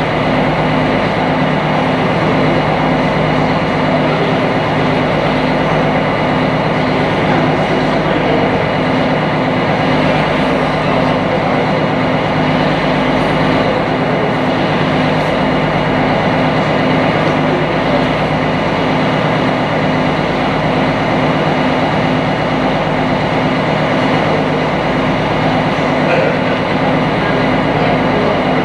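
Sightseeing boat's engine running steadily while under way, heard on board as a constant low hum with an even beat, over a rushing noise of water and air past the hull.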